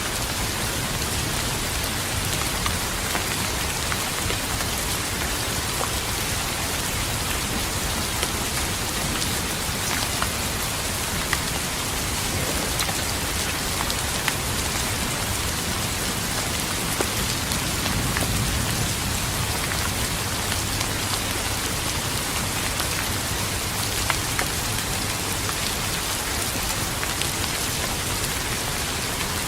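Steady rain pattering on a surface, with scattered sharper drop ticks. A low rumble of distant thunder swells briefly a little past the middle.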